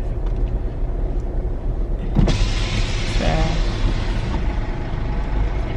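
Car engine idling, heard from inside the cabin as a steady low rumble, with a rush of outside noise coming in about two seconds in.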